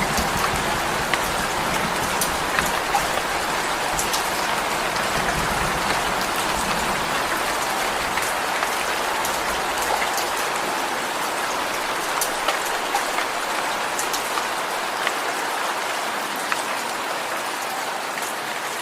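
Steady rainfall: an even hiss of rain with scattered sharper drop ticks.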